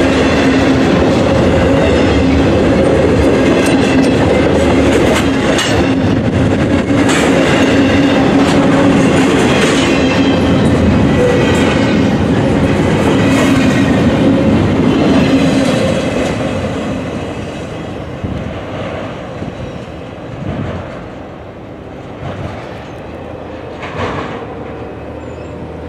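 Intermodal container cars of a freight train rolling past, with wheels clicking over rail joints and a steady ringing tone over the rumble. About sixteen seconds in the noise falls away as the end of the train passes and recedes.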